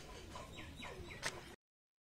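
A small bird chirping three times in quick succession, each a short note falling in pitch, with a sharp click just after the third; then the sound cuts out to dead silence.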